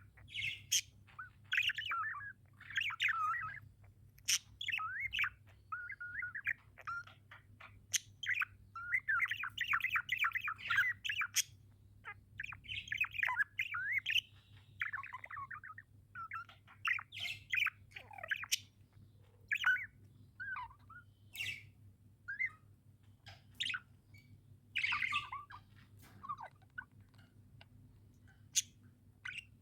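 Budgerigars chirping and warbling in rapid, broken bursts, with the odd harsher squawk and sharp clicks between phrases.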